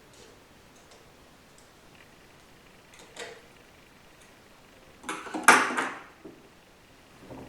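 Metal transmission parts being handled: a faint click about three seconds in, then a clatter of metal on metal lasting about a second, and a light clink near the end.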